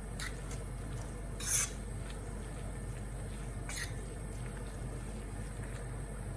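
Chopped vegetables cooking in a pan with soy sauce, a low steady sizzle, with a few brief scrapes or clicks, the loudest about a second and a half in and another near four seconds.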